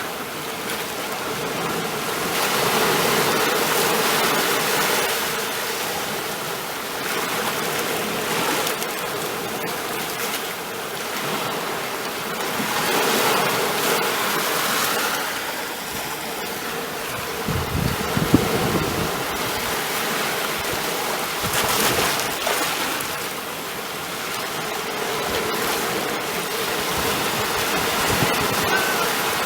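Ocean waves washing on the shore, the surf swelling and easing every few seconds. About two-thirds of the way through there is a deeper rumble with a sharp click.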